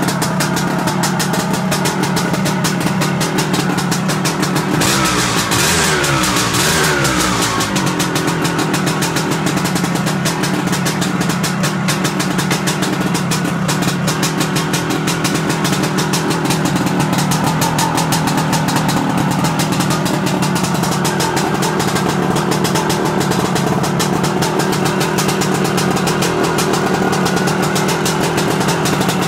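1975 Aermacchi Harley-Davidson SX250's single-cylinder two-stroke engine idling steadily, with a brief rev about five seconds in before it settles back to idle.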